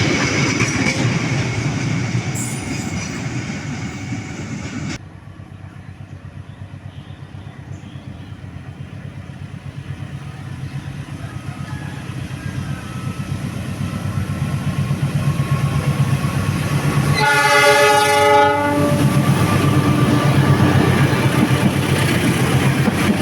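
Trains rolling by on the rails with rhythmic wheel clatter; the first stops abruptly about five seconds in, and a quieter one builds steadily louder. About seventeen seconds in, a locomotive horn sounds one chord-like blast of about a second and a half, and the train passes loudly with its wheels clattering.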